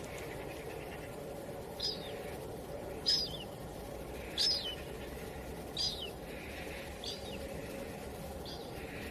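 A bird calling: six short, high, falling notes, one about every second and a half, over a steady rush of wind.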